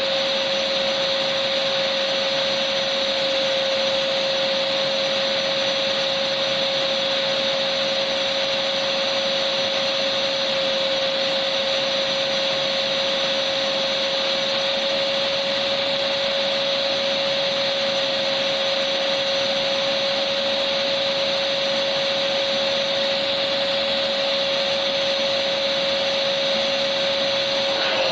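Vacuum cleaner motor running steadily: a continuous rushing hiss with one constant mid-pitched whine.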